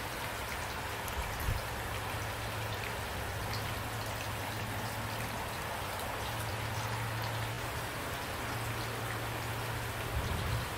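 Steady rain falling, an even hiss of raindrops, with a brief low thump about a second and a half in and another near the end.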